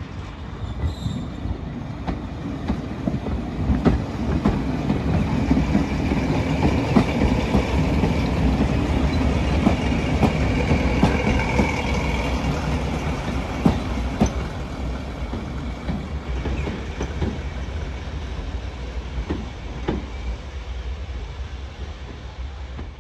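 Heritage diesel multiple unit running on the line, its engine rumble and the clicking of wheels over rail joints growing louder and then easing off, with a brief high squeal from the wheels about halfway through.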